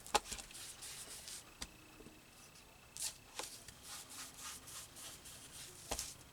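Paper being handled and rubbed along its edges, likely with an ink pad to ink the edges: soft rustling and rubbing with a few light taps.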